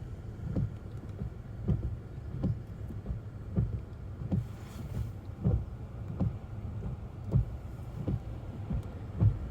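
Car cabin while driving in snow: a steady low road and engine rumble with a soft thump about every two-thirds of a second, the rhythm of windshield wipers reversing at the end of each stroke.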